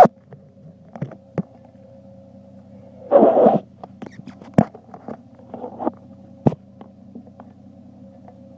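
Chevrolet Trailblazer with a Magnaflow exhaust idling, a steady low drone, under knocks, rustling and scraping of the phone being handled and taped right at the microphone; the loudest is a rough scrape about three seconds in.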